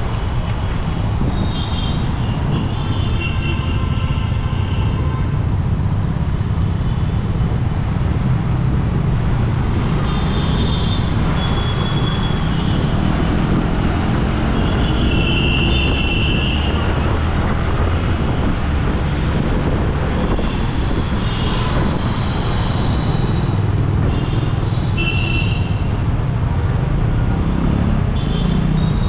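Steady road and wind noise from riding a motorbike through city traffic, with short high-pitched tones coming and going.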